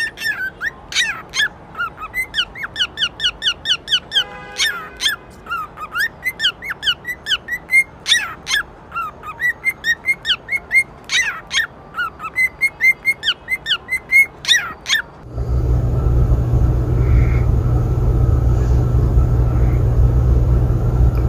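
A bird singing, a long run of quick whistled chirps and falling trills, for about fifteen seconds. A steady low hum then takes over and is the loudest part.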